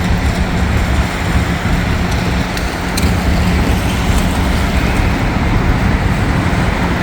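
Steady vehicle noise with a constant low hum.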